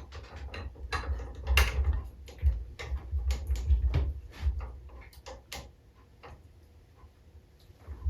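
Irregular clicks and light taps of small metal parts being handled and fitted by hand on an aluminum compressed-air engine, with low bumps of handling; the clicking thins out to a few faint ticks after about six seconds.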